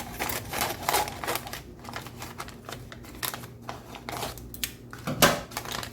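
A donut bag being handled, crinkling and rustling with irregular small clicks and knocks, as a donut is unwrapped to be cut. A louder knock comes about five seconds in.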